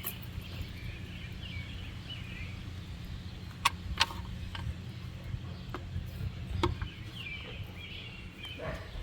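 Sharp clicks of hands working at the plastic clips of a truck's air cleaner box: two loud ones about four seconds in, then a few fainter ones. Birds chirp in the background over a steady outdoor hum.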